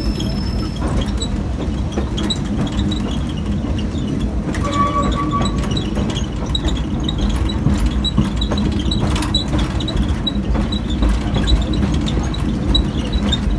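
Passenger train running along the track, heard from aboard a car: a steady low rumble with faint light ticks and rattles.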